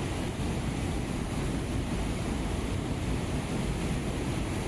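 Steady rushing noise of wind and river water, heaviest and rumbling in the low end, with no breaks.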